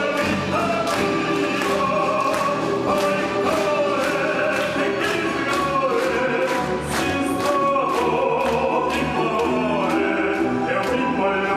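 Live orchestra music with singing over a steady beat of about two strokes a second.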